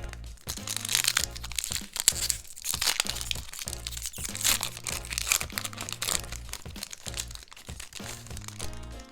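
Packaging crinkling and crackling as it is handled and torn open, loudest from about half a second to about six seconds in, over background music.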